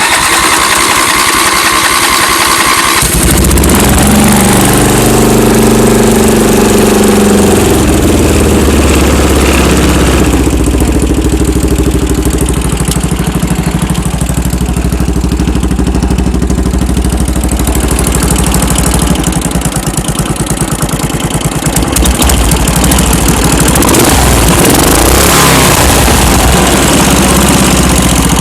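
Old tractor engine on a cold start: the starter cranks it for about three seconds, then it catches, picks up speed and settles into steady running.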